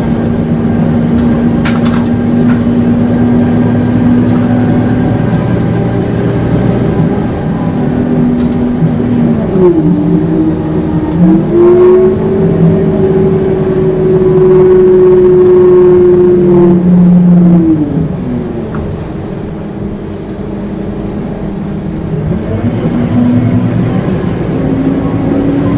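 Scania K230UB city bus's five-cylinder diesel engine and drivetrain howling under way. The pitch sweeps up about ten seconds in as the bus pulls harder, holds high and steady for several seconds, then falls away as it slows, and climbs again near the end.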